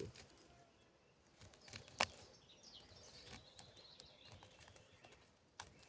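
Quiet woodland ambience with faint bird chirps and a single sharp click about two seconds in.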